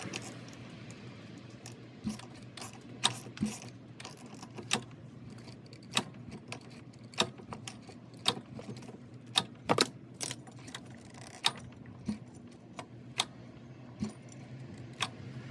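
Irregular metallic clicks and clinks of hand tools and scooter clutch parts being handled, with a steady low hum underneath.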